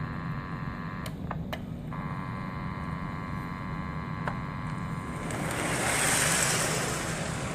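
Lionel R-30 O-gauge model subway train running on its track: a steady electric hum, a few sharp clicks about a second in, then a rush of noise that swells to its loudest about six seconds in and fades.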